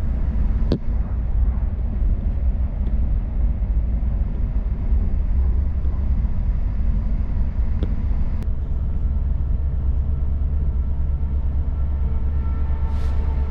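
Diesel passenger train running, heard from inside the carriage: a steady low rumble with two brief sharp clicks, and a faint whining tone that comes in near the end.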